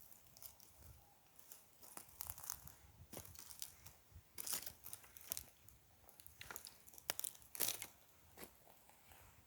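Irregular dry crackles and snaps close to the microphone, as of dry forest debris being handled or crushed, with scattered sharp clicks and short crunches at a low level.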